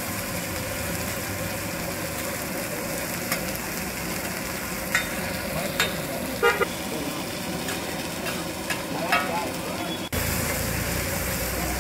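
Food frying in oil on a street-stall griddle: a steady sizzling hiss, broken by several sharp metal clinks and scrapes of a spatula.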